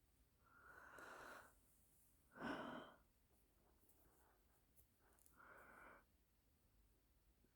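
A woman's breathing, three soft breaths or sighs: a longer one near the start, the loudest about two and a half seconds in, and a shorter one near the end.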